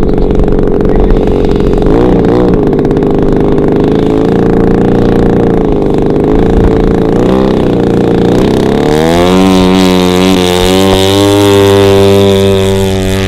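Zenoah G-62 single-cylinder two-stroke petrol engine of a large RC P-47 model running steadily. About nine seconds in, its note changes and climbs to a higher steady pitch.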